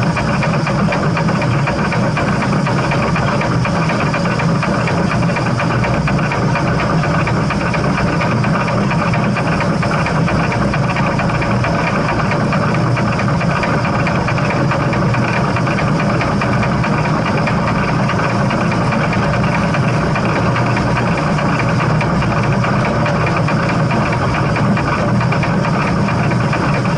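Steam train running, a loud, steady rumble with no change over the whole stretch.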